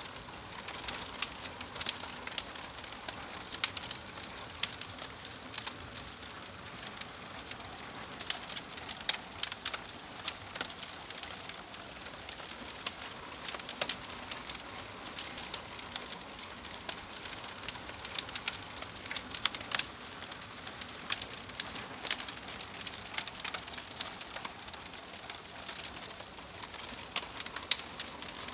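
Fire crackling: irregular sharp snaps and pops, several a second, over a steady soft hiss.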